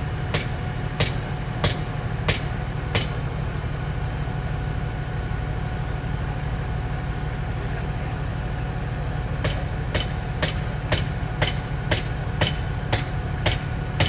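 A vehicle engine running steadily with a low rumble, joined by evenly spaced sharp clicks about two a second for the first few seconds, which stop and then return from about nine and a half seconds on.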